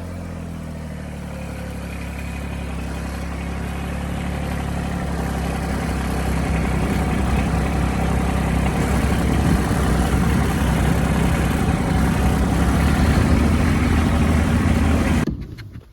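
A motor vehicle's engine running and growing steadily louder as it approaches, then cutting off abruptly near the end.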